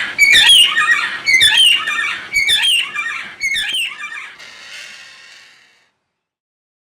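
A bird squawking, four loud calls about a second apart, then a fainter call fading out near the end.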